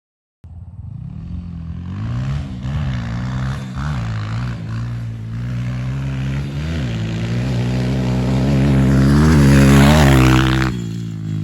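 Dirt bike engine starting abruptly, blipping the throttle in short revs, then climbing steadily in pitch as it is held on the throttle, before the revs drop off sharply near the end.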